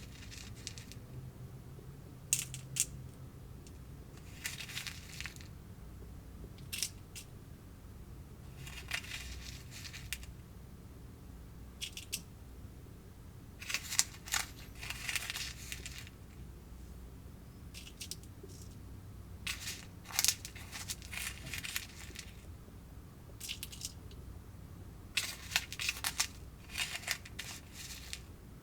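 Plastic and paper candy-kit packaging handled in short bursts every few seconds: crinkling, rustling and tearing, with the longest spells about 14 and 20 seconds in.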